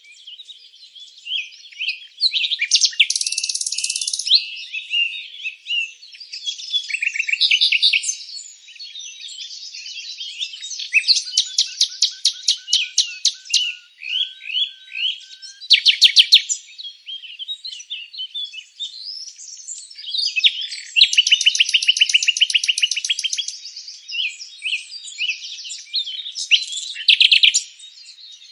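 Several songbirds singing at once in a dense chorus of chirps, whistled phrases and fast trills, overlapping throughout.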